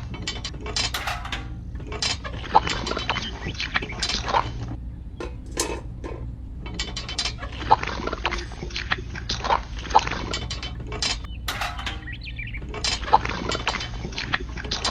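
Small motor-driven mechanism clicking and rattling irregularly over a steady low hum, with a sharper click every few seconds.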